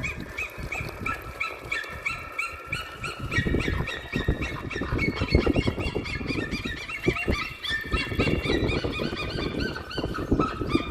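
A flock of waterbirds calling together: many short, arched calls from several birds overlap at a few per second, with irregular low rustling and splashing noise underneath.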